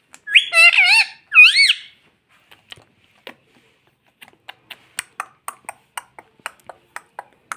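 Indian ringneck parakeet giving two loud whistled calls that waver up and down in pitch, in the first two seconds. Then a run of short sharp clicks, about four a second, through the second half.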